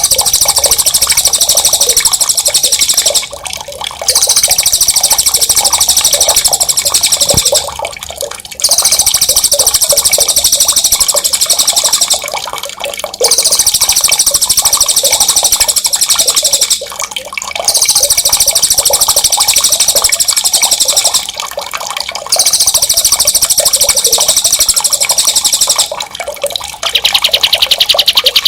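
Songbird trilling ("ngerol"), with very high, rapid rolling trills about three to four seconds long, repeated about six times with short pauses. Running water goes on steadily beneath. Near the end there is a lower trill that rises in pitch.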